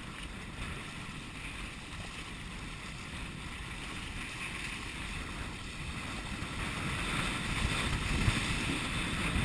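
Water rushing along the hull of a Hobie sailing kayak running fast under sail, with wind buffeting the microphone. It grows louder over the last few seconds.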